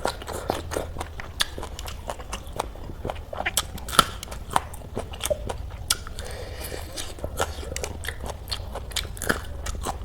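Close-miked chewing and biting of food, with many sharp, crisp crunches, the loudest about four seconds in.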